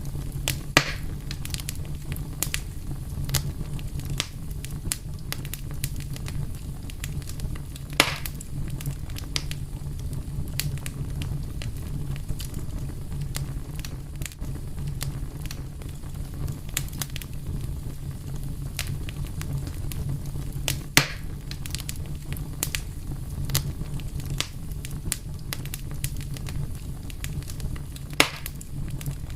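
Wood fire crackling steadily over a low rumble, with many small snaps and a few louder pops.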